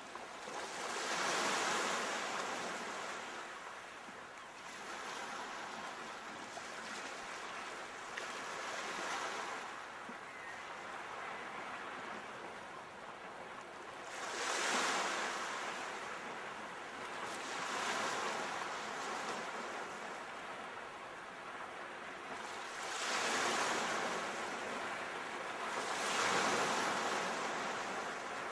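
Sea waves breaking and washing on a shore, a steady surf hiss that swells with each incoming wave, about five times.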